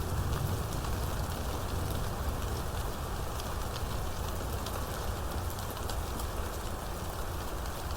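Steady heavy rain falling, with many separate drops ticking on a surface and a constant low rumble underneath.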